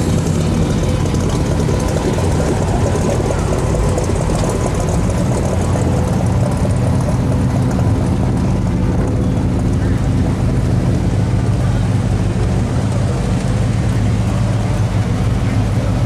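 Cars cruising slowly past, their engines running with a steady, low, unbroken hum.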